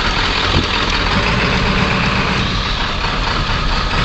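Large diesel truck engine running steadily at low speed, heard from inside the cab.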